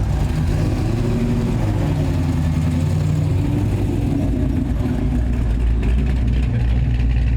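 A car engine running close by with a steady low rumble, its pitch wavering slightly as it moves at low speed.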